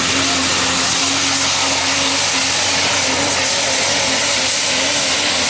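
Diesel pickup truck engine at full throttle under heavy load, pulling a sled. It gives a loud, steady drone with a strong hiss over it.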